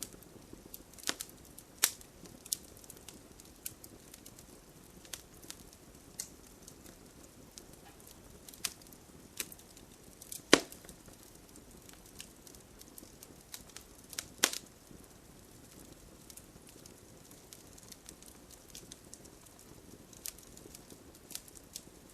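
Wood campfire crackling: scattered sharp pops and snaps of burning wood over a faint steady background of the flames, with the loudest pop about ten seconds in and another strong one about fourteen seconds in.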